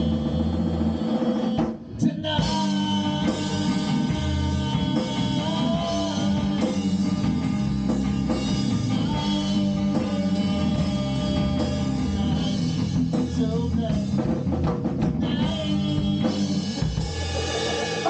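A rock band playing with a drum kit, with held notes over the beat. The music drops out for a moment about two seconds in, then carries on.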